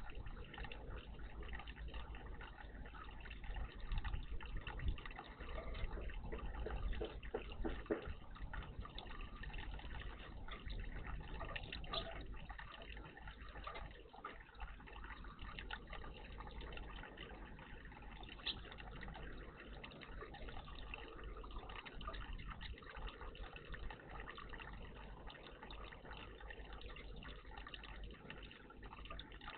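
Water trickling and splashing in a garden bird bath, with small scattered drips and splashes over a low steady rumble.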